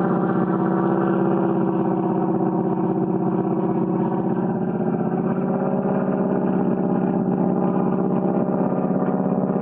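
North American AT-6 trainer's Pratt & Whitney R-1340 Wasp radial engine and propeller heard from the ground during aerobatics: a continuous loud drone whose pitch sags slightly through the middle, then rises again.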